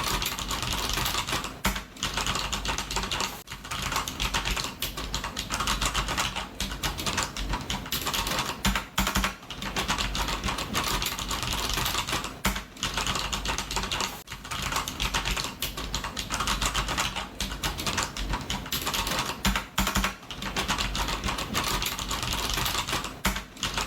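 Typing on a computer keyboard: rapid, continuous keystrokes clattering without letup, broken by short pauses every few seconds.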